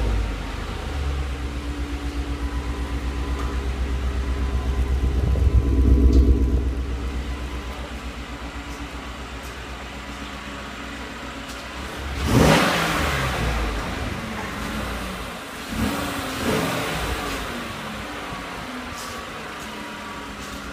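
Chevrolet Silverado 5.3-litre V8 running just after start-up. The engine note swells to a peak about six seconds in, then settles to a steady idle. It is revved sharply once about twelve seconds in, blipped again a few seconds later, and returns to idle.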